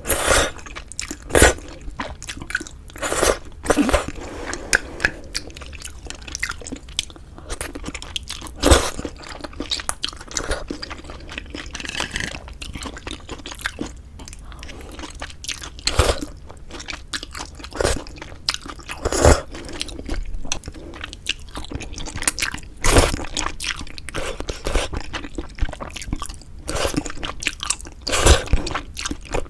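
Close-miked ASMR eating sounds of pork backbone hangover soup with glass noodles: wet chewing throughout, broken by sharp, loud mouth clicks and bites every few seconds at an uneven pace.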